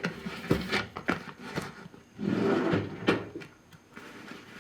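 A drawer being opened and handled: a series of knocks and clacks.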